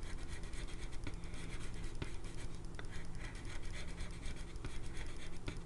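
Pencil scratching on paper in quick, continuous sketching strokes.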